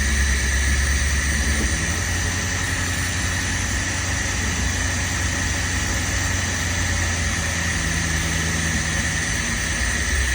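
A 1984 car's engine idling steadily during one of its first runs after a year off the road. Its low note shifts a little about two seconds in while the ignition timing, found far advanced, is being set.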